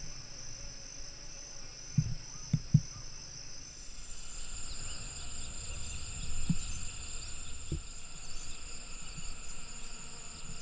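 Insects such as crickets calling in a steady high chorus at two pitches. A few soft low knocks come about two seconds in and again later.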